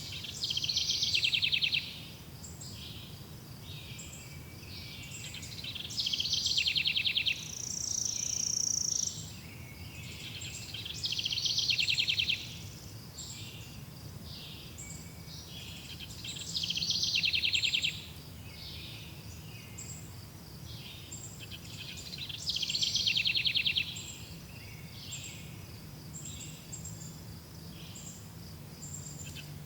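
Wild birds singing: a loud, rapid trill about a second and a half long repeats roughly every five to six seconds, with many short high chirps between. A steady low rumble runs underneath.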